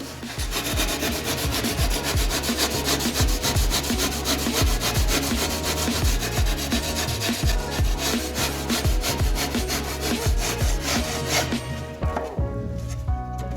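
A Superisol calcium-silicate insulation board being trimmed by hand, with fast, even rubbing and sawing strokes. Music runs underneath and takes over near the end as the strokes stop.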